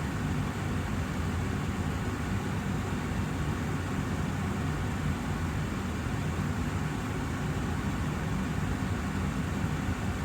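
Austin Air HealthMate air purifier fan running steadily: a constant rush of air over a low hum.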